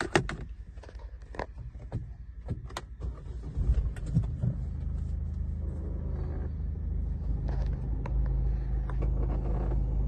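Ford EcoSport engine starting about four seconds in and then idling steadily, after a few clicks and knocks from the key fob being handled in the cabin.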